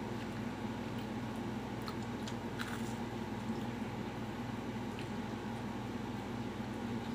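Eating breaded fried chicken fillet: soft chewing and biting, with a few faint crunches about two to three seconds in, over a steady low hum.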